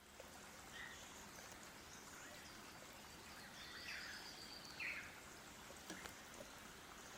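Faint forest birdsong: scattered short calls from several birds over a steady hiss, with one longer high call about three and a half seconds in and a sharper call just after it.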